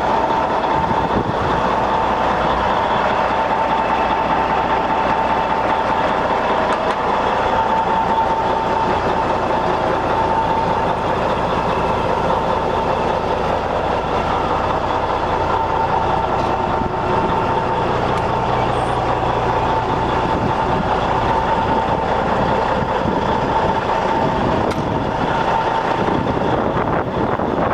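1994 International 9400 truck tractor's diesel engine running steadily.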